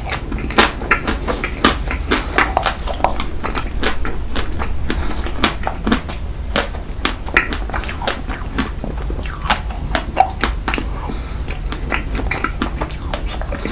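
A person eating close to the microphone: chewing and biting, with many short, irregular mouth clicks.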